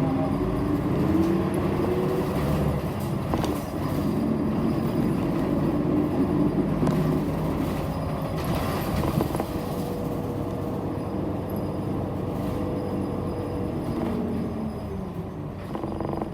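City bus engine and drivetrain heard from inside the passenger cabin: a whine that rises in pitch as the bus pulls away, holds steady while it cruises, and falls as it slows near the end, over a steady rumble of road noise.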